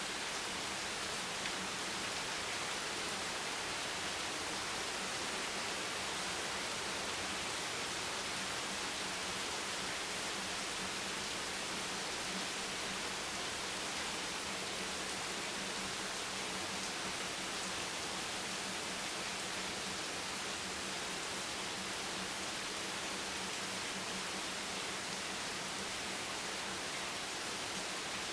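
Steady, even hiss of rain, with no separate drops or other events standing out.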